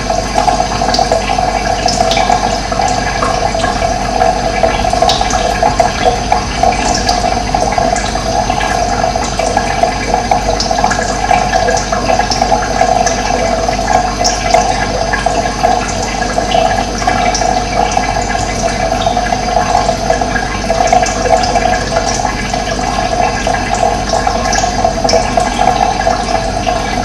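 Running water flowing steadily, with small birds chirping now and then over it.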